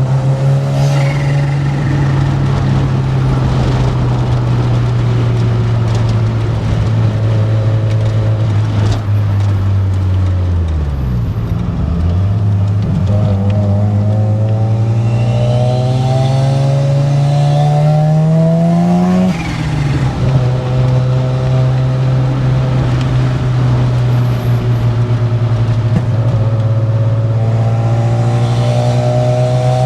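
Mazda RX-7's 13B two-rotor rotary engine running at steady cruising revs. About ten seconds in the revs drop off, then climb steadily for several seconds under acceleration and fall sharply at a gear change, before it settles back to a steady cruise.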